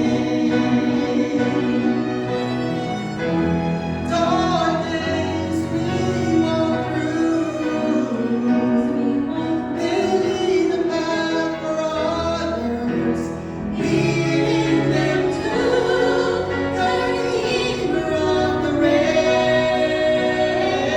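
A song: singing with long held notes over musical accompaniment.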